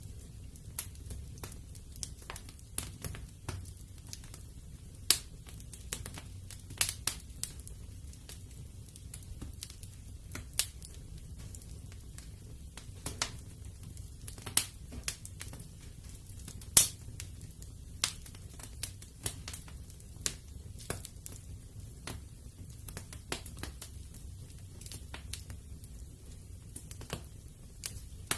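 Wood fire in a fireplace crackling, with irregular sharp pops and snaps, the loudest about two-thirds of the way through, over a steady low rumble of the flames.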